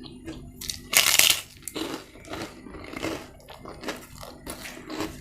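Close-up eating: a loud crunch about a second in as something crisp is bitten, then crunchy chewing at about two chews a second.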